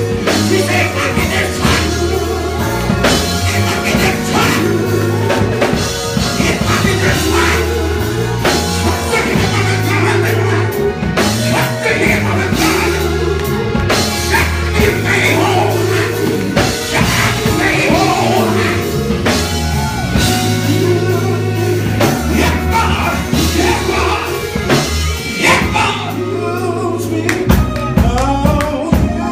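Live gospel music: singing over bass, drums and keyboard, loud and continuous.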